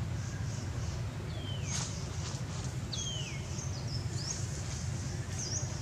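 Birds calling: two thin whistles that slide downward, and several short high chirps, over a steady low rumble.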